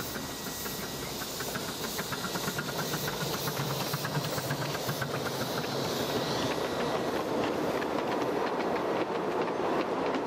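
Miniature railway train running along the track, its wheels clicking rapidly over the rail joints, growing louder towards the end as it comes closer.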